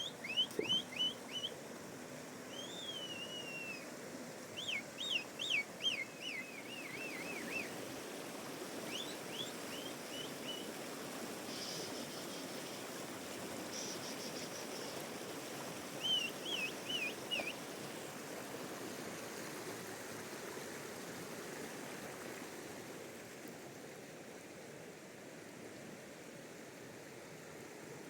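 Steady rush of a river with a songbird calling over it in short bursts of quick, high, down-slurred notes, several bursts in the first two-thirds and none near the end.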